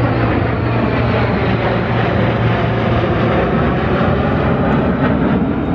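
Steady, loud aircraft engine noise with a low hum underneath.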